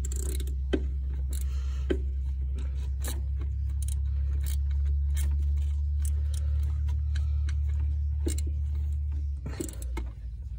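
1994 Ford Ranger 3.0L V6 idling with a steady low drone while its distributor is twisted by hand to set the preliminary ignition timing, with scattered light metallic clicks and scrapes from the socket and distributor. The engine note shifts and dips about nine seconds in.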